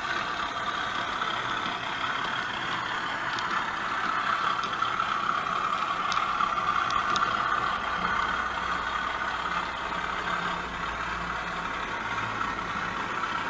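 A DCC sound decoder in an OO gauge model locomotive playing a steady engine idling sound through its small speaker.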